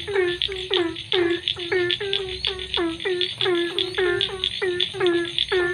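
Chorus of frogs calling after rain: short croaks that each drop in pitch, overlapping at about three to four a second, with faint steady high tones behind them.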